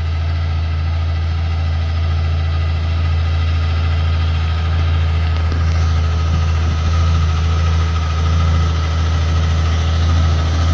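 Heavy logging truck's diesel engine idling steadily, a deep, even low hum.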